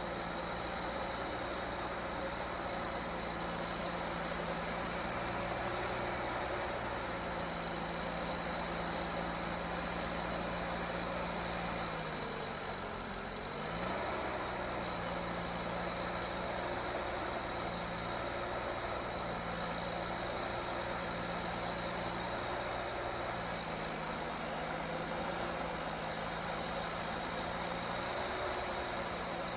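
Heavy vehicle's engine running steadily, its speed stepping up and down slightly; about halfway through the pitch drops briefly and climbs back.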